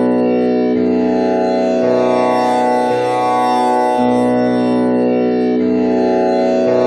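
Tanpura drone tuned to B with the first string set to komal Ni, its four strings plucked in turn in a cycle that repeats about every five seconds. The notes overlap into a loud, steady ringing drone.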